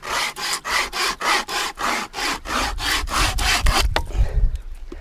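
Pocket flexible saw cutting through dry willow wood, pulled back and forth in quick rasping strokes, about two to three a second, tailing off about four seconds in.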